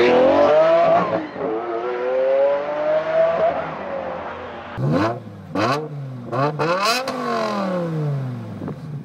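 Sports car engine revving. It accelerates hard twice, pitch climbing, then gives four quick throttle blips about five seconds in, the last one winding down slowly.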